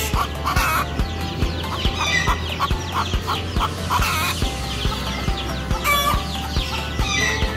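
A brood of baby chicks peeping constantly, many short falling cheeps overlapping, over background music with a steady beat.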